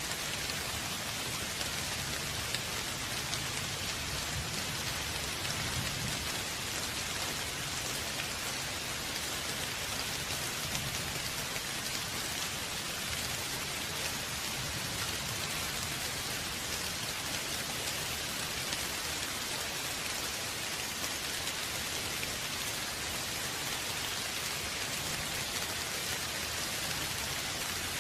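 Steady rain falling, an even hiss of drops with a faint low rumble underneath.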